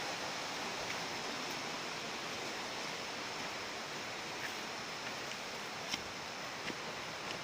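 Waterfall rushing: a steady, even noise of falling water, with a few faint clicks over it, the sharpest about six seconds in.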